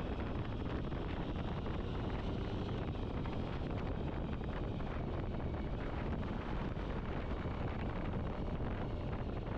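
Steady wind rushing over the microphone of a moving motorcycle, mixed with the bike's running and road noise.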